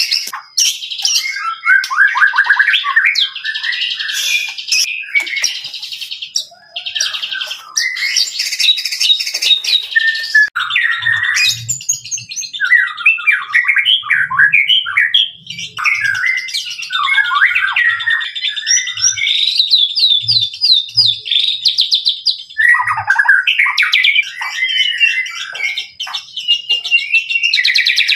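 White-rumped shama singing in full song: a long run of varied whistled, trilled and chattering phrases, separated by short pauses.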